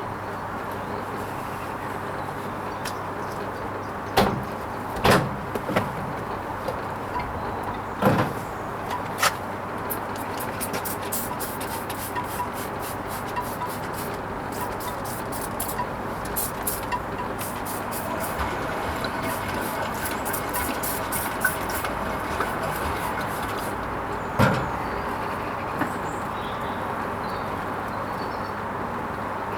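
Hoover Vision HVP16 washing machine running its Silks wash cycle: a steady hum with a few sharp knocks in the first ten seconds and again near the end, and a spell of fine rapid clicking in between.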